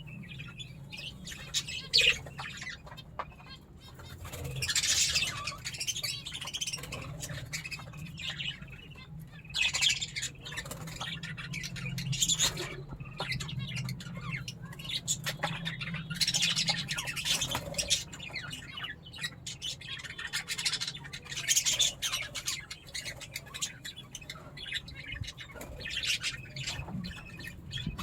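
Budgerigars chirping and squawking in repeated bursts over a steady low hum.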